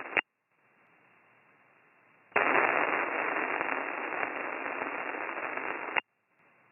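A short-wave radio transmission heard through the receiver, with no voice on it: a click, a couple of seconds of faint band hiss, then a loud crackling hiss in a narrow voice band. The hiss switches on abruptly about two seconds in and cuts off with a click near the end. This is the Q900 transceiver keyed up with the MH48-clone microphone at gain 41.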